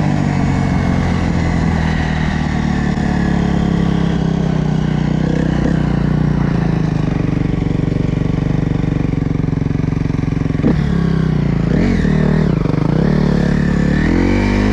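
Dirt bike engine running at a steady speed for most of the time, then the revs drop and climb again a couple of times, and rise near the end.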